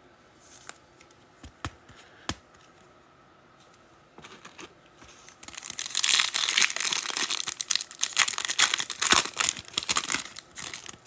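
A few light clicks, then about halfway in a trading-card foil pack is torn open and its wrapper crinkled, a loud, crackly rustling that runs for several seconds.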